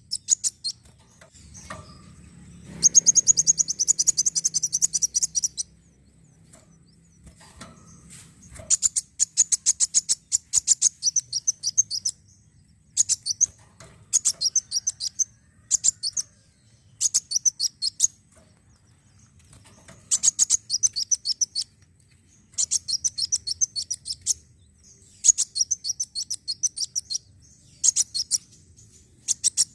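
Kolibri wulung sunbird song: bursts of rapid, high-pitched chittering notes, each one to three seconds long, repeated again and again with short pauses between. The song is played as a lure to get kept sunbirds singing.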